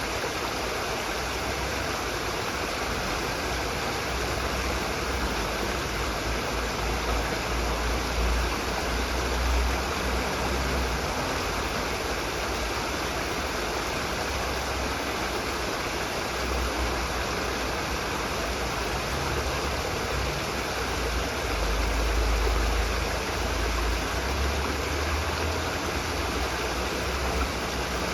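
Steady rushing of running water, with a low rumble that swells and fades at times.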